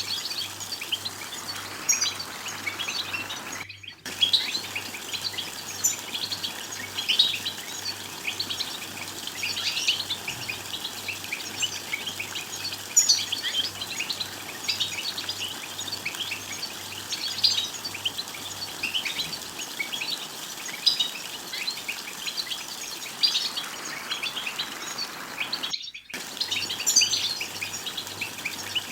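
Several European goldfinches twittering together, a dense run of quick overlapping high chirps and trills. The sound cuts out briefly twice, about four seconds in and near the end.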